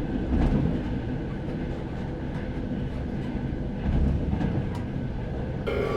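Train running on rails: a steady low rumble with a few faint clicks. Just before the end, a sustained eerie music chord comes in over it.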